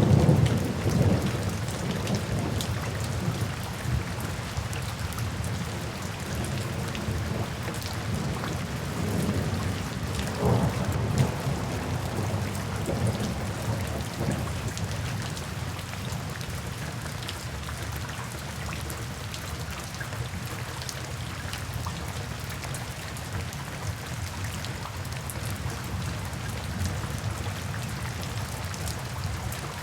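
Steady rainfall in a thunderstorm. A deep rumble of thunder is loudest at the start and dies away over the first couple of seconds, and fainter rumbles come again about ten seconds in before the rain settles to an even patter.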